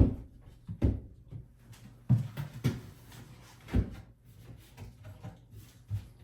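About half a dozen irregular knocks and bumps on a bathroom vanity cabinet as a level is set down and moved around on it, the loudest right at the start.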